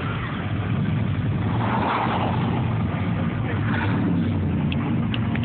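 Engines of passing show cars running steadily at low speed, a continuous low rumble, as a red vintage hot rod sedan drives by.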